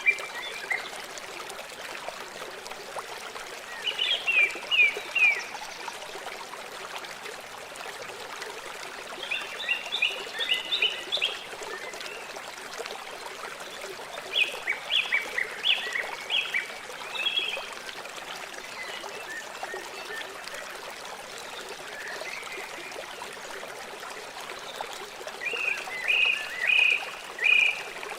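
River water flowing steadily. A bird calls over it in quick runs of four to six short notes, five times, about every five seconds.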